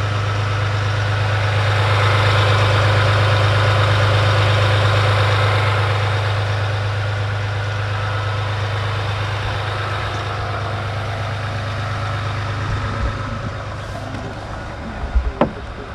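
3.0-litre EcoDiesel V6 turbodiesel of a 2020 Ram, fitted with an aftermarket turbo inlet pipe, starting up and settling into a steady idle, a little louder for the first few seconds. A couple of short knocks near the end.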